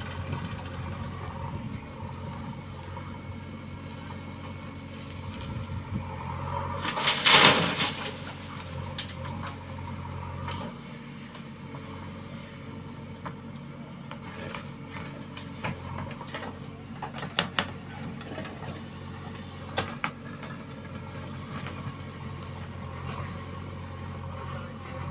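Diesel engine of a tractor or JCB running steadily, its low note dropping slightly about ten seconds in. A loud rushing burst comes about seven seconds in, followed by scattered knocks and clicks.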